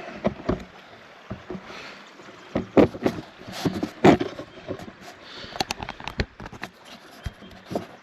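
Irregular splashes and knocks in water, the strongest about three, four and six seconds in, over the steady sound of running water.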